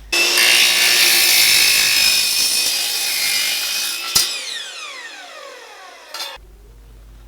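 Power saw fitted with an aluminium-cutting blade cutting a mitre through rectangular aluminium tube for about four seconds. It is then switched off and the blade spins down with a falling whine. The sound cuts off suddenly.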